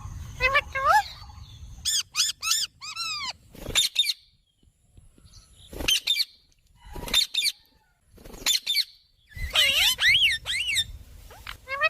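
Indian ringneck parakeet giving a series of short, shrill calls, bent in pitch, coming in small clusters separated by pauses, with a denser flurry of calls near the end.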